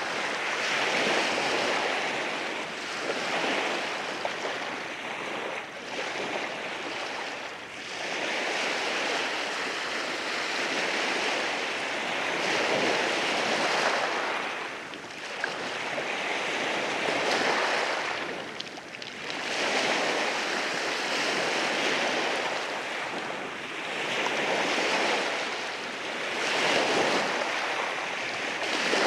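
Sea waves breaking and washing over rocks on a rocky shore: a continuous rushing wash that swells and ebbs every few seconds, with brief lulls between breakers.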